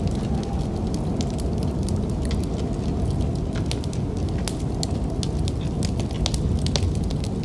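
Wood fire crackling in a fireplace, with many irregular sharp pops over a steady low rumble of snowstorm wind.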